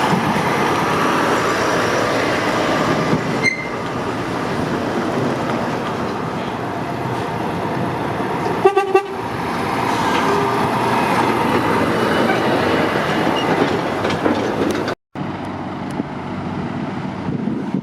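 Heavy motorway traffic with lorries passing in a steady rush of engine and tyre noise. About nine seconds in a vehicle horn gives a short, pulsing toot. The sound cuts out for an instant about fifteen seconds in and comes back quieter, with wind on the microphone.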